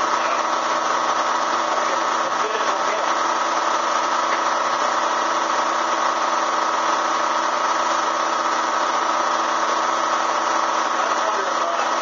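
Bee vacuum's motor running steadily, an unbroken hum with a constant whine.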